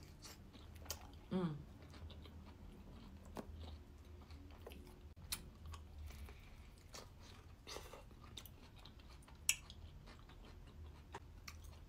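A person biting into and chewing a tuna-and-avocado sandwich on toasted bread, with soft wet mouth clicks and an occasional crunch.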